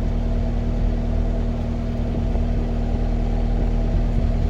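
Cat 259D compact track loader's diesel engine running steadily at an even pitch.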